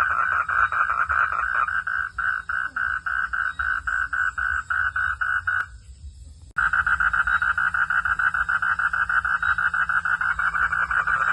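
Frogs calling in a dense chorus of rapid pulses, about six a second. The calling cuts off abruptly a little past the middle, then starts again about a second later.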